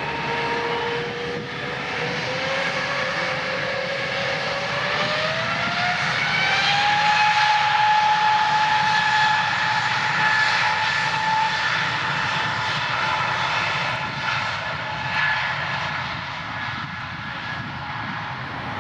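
Airbus A320-200 jet engines spooling up for takeoff: the whine rises in pitch over the first several seconds, then holds steady under a loud roar.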